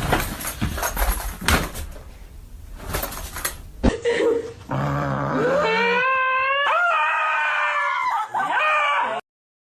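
A dog howling in one long wavering call that rises at the start and lasts about four seconds, through the second half. Before it come a few scattered knocks and scuffs.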